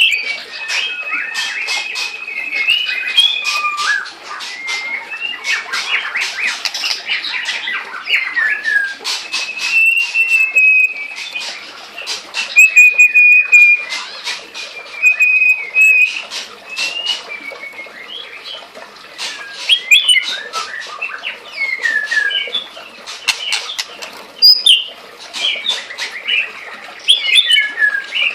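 White-rumped shama singing a long, varied song: clear held whistles, quick sliding notes and many sharp clicks.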